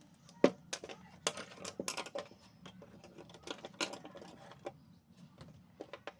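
Irregular light clicks and taps of small hard objects being handled. The sharpest knock comes about half a second in, and the clicks thin out after about five seconds.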